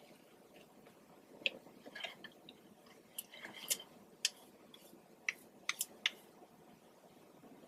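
A person chewing food with the mouth close to the microphone: scattered short, wet clicks and smacks, about a dozen of them, over a faint steady hiss.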